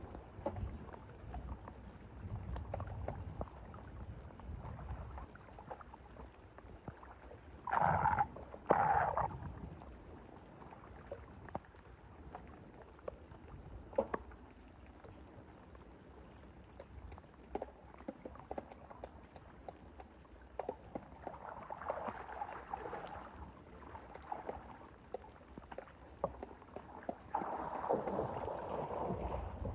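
Water sloshing and splashing in a clogged drain, with scattered small knocks. There are two loud splashes about eight seconds in, and longer stretches of sloshing later on and near the end.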